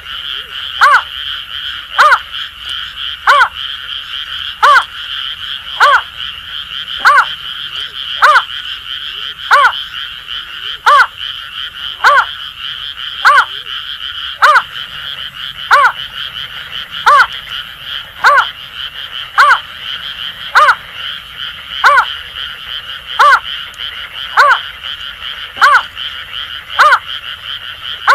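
Greater painted-snipe giving its repeated hooting call, one short note about every second, over a continuous trilling chorus of Asian grass frogs.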